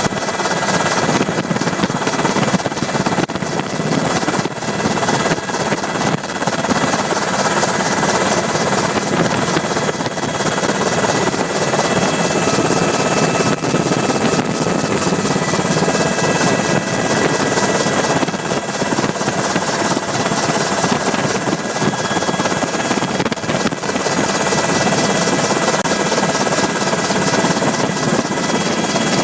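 Steady, loud engine and airframe noise of the aircraft carrying the camera, heard from on board.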